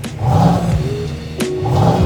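Cadillac Escalade V8 revved in short blips through its PID variable exhaust, two rising-and-falling rumbles about a second and a half apart. Music plays over it.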